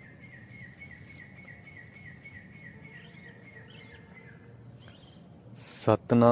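A bird calling a rapid, even series of short falling notes, about three or four a second, over faint background hiss; the calls stop about four and a half seconds in. Near the end comes a brief whoosh, then a chanted mantra over a steady drone begins.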